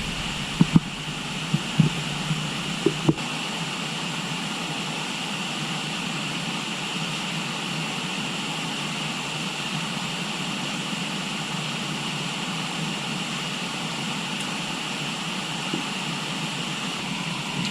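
River water flowing in a steady rush, with a few sharp knocks in the first three seconds.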